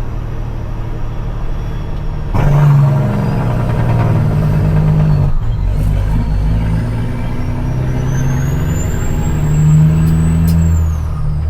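CAT C-15 diesel in a dump truck pulling hard under load, with a quick break in the sound about halfway through as it shifts. A high turbo whistle rises through the second half, then falls away near the end as the throttle comes off.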